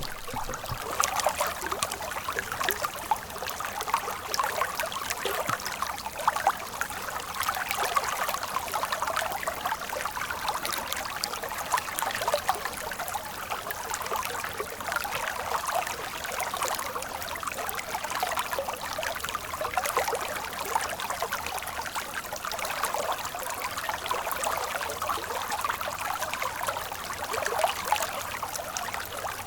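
Water running in a stream: a steady babble of trickling and many small splashes.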